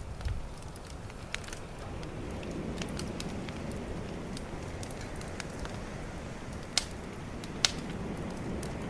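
Bonfire crackling, with scattered sharp pops; the two loudest come near the end, under a second apart. Underneath is a steady low rush of calm ocean waves that swells and eases.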